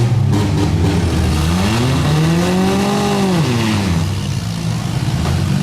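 Several demolition-derby minivans, trucks and SUVs running their engines loudly. One engine revs up about two seconds in, holds for a moment, then drops back down.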